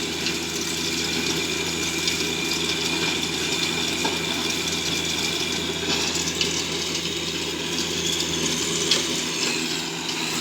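Tractor engine running steadily while tilling up the ground, a constant mechanical hum.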